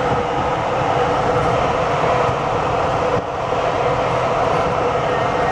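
Steady airflow noise inside the cockpit of a DG1000 glider cruising at about 60 knots with no engine running, a constant rushing with a brief dip about three seconds in.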